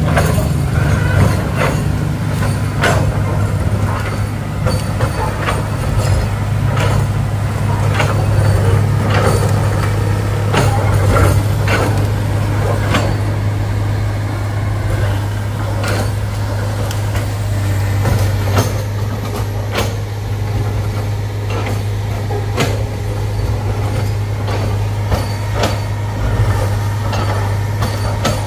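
Heavy diesel engine running steadily at a low drone, with frequent sharp knocks and clanks at irregular intervals.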